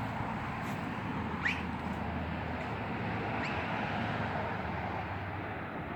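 A steady background of outdoor noise with a low hum, over which a bird gives two short rising chirps, about a second and a half in and again about two seconds later.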